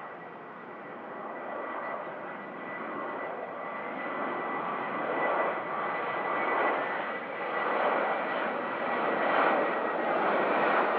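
Airliner engines growing steadily louder as the aircraft approaches, a dense roar with a thin high whine running over it.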